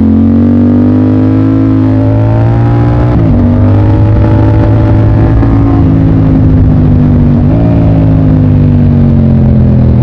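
Motorcycle engine running hard under way, its pitch climbing. About three seconds in the pitch drops at a gear change, then climbs again. Around seven and a half seconds it changes once more and eases off toward the end.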